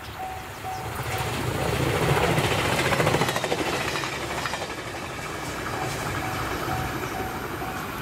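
A JR Shikoku electric train passes close by, with wheels clicking over rail joints; it is loudest two to three seconds in and then fades. A level crossing's warning bell rings on in a steady repeating beat throughout.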